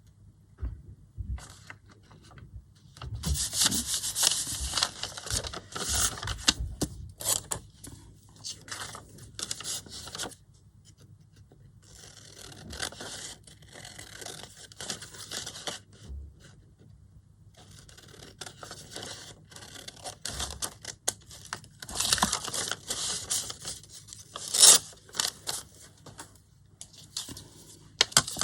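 Paper being rubbed, scraped and handled in repeated bursts with short pauses, the strongest stretches about three to seven seconds in and again around twenty-two to twenty-five seconds in.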